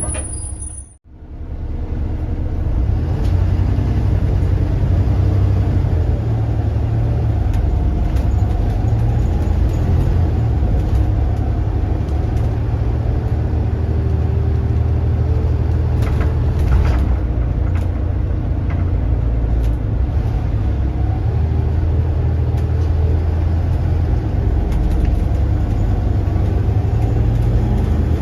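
Volvo B7RLE single-deck bus's six-cylinder diesel engine running under way, a steady low rumble heard from inside the bus, with a brief dropout about a second in.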